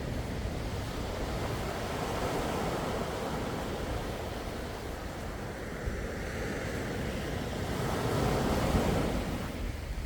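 Sea waves washing in a steady wash, with one swell near the start and a louder one rising and falling near the end, over a low rumble of wind on the microphone.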